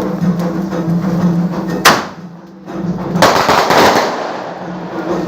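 Fireworks (Brazilian festival rockets) going off: a sharp bang about two seconds in, then a noisy burst lasting about a second.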